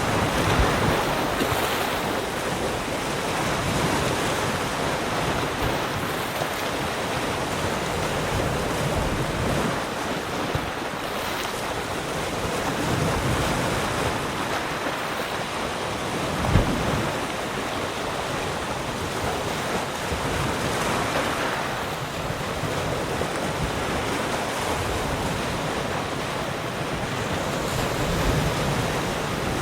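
Sea surf: waves breaking and washing in a continuous rush that swells and eases every few seconds, with wind on the microphone. One short low thump comes a little past halfway.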